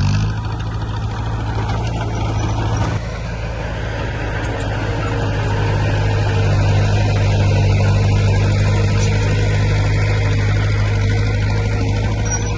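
Heavy diesel engine of construction machinery running under load with a steady deep hum. Its level drops abruptly about three seconds in, then builds gradually and eases a little near the end.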